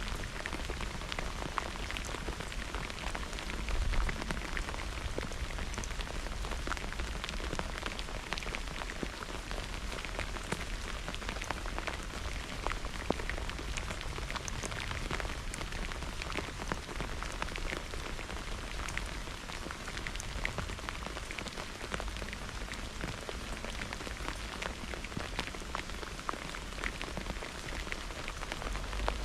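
Steady rain falling in a thunderstorm, with many separate drops ticking close by over a low rumble that swells briefly a few seconds in and again past the middle.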